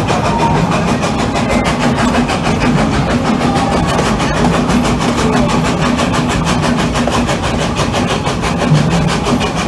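Amusement-park railroad train running along its track, heard from an open car behind the locomotive: a steady, loud running noise with a low hum.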